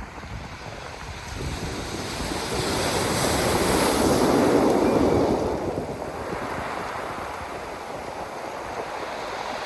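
Sea waves breaking on a pebble shore: a wave builds from about a second in, breaks loudest around four to five seconds in, then washes back and settles to a steady hiss.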